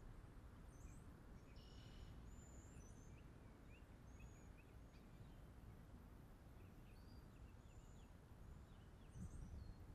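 Near silence outdoors: a faint, steady low rumble with many short, faint high-pitched bird chirps scattered throughout.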